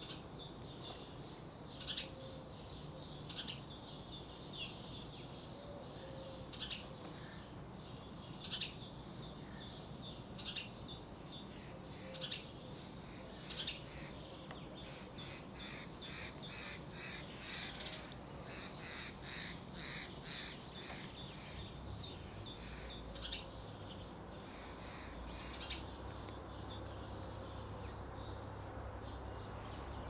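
Bird calling: short, sharp calls repeated every second or two, breaking into a quick chattering run of calls around the middle, over a low steady hum that grows stronger in the second half.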